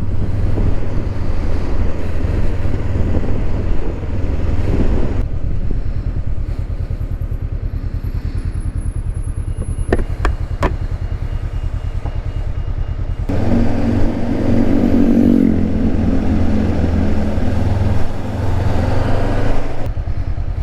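Motorcycle engine running while being ridden, a steady low rumble that is louder and busier for the first few seconds and again through the second half, with two sharp clicks around the middle.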